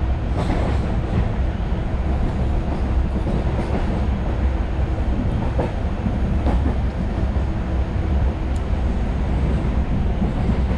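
Moving express train heard from inside an LHB passenger coach: a steady low rumble of wheels on rail, with a few faint clicks from the track.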